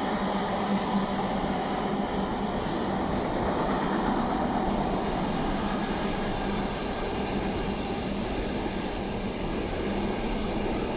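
A train running by: a steady rumble with a constant low hum.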